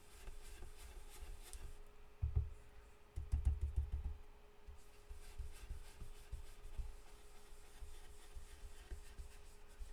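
Blending brush rubbing ink onto cardstock in small circular strokes, a soft scratchy brushing, with a few dull bumps against the table a couple of seconds in and again about a second later, over a faint steady hum.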